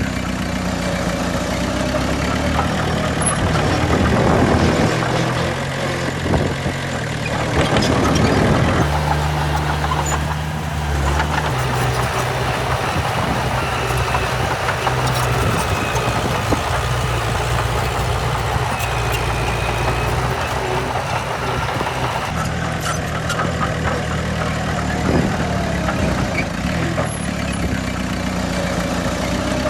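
Heavy diesel engines of earthmoving machinery running and idling, with the sound changing abruptly about nine and about twenty-two seconds in.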